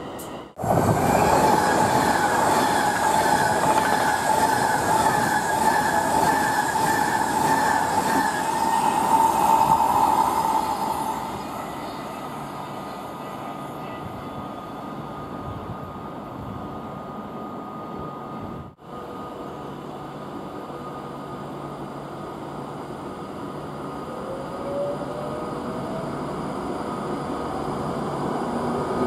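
Class 390 Pendolino electric train running along a station platform: a loud high squeal over the wheel noise for about the first ten seconds, then a quieter steady rumble, with a rising whine near the end.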